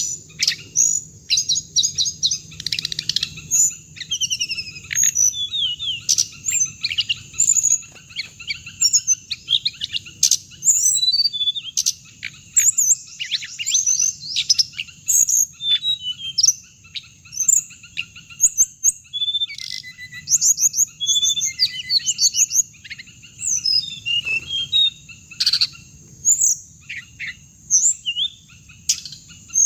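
Hồng hạnh birds calling: a dense, continuous run of rapid high chirps and short trills, with a steady high-pitched band underneath.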